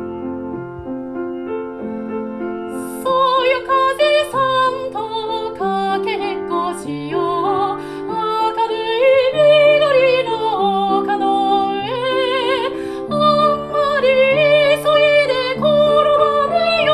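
Piano playing a gentle accompaniment alone. About three seconds in, a high classical-style singing voice with vibrato enters over it, singing a Japanese art song.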